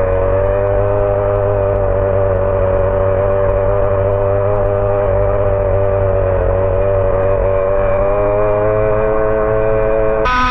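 HPI Savage X 4.6's small nitro engine running hard at high revs, a steady high buzz whose pitch wavers slightly, over a low rumble.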